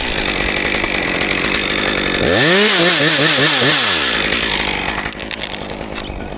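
Stihl MS 261 chainsaw making the back cut to drop a small treetop. The saw runs loud, revs up to full throttle about two seconds in with its pitch wavering as it cuts, then eases off near the end. Its chain is described as really blunt.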